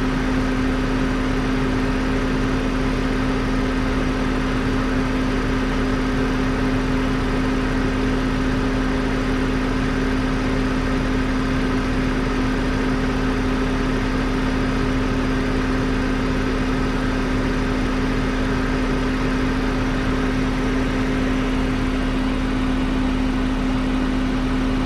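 2003 BMW 525i's 2.5-litre inline-six engine idling steadily, with no revving.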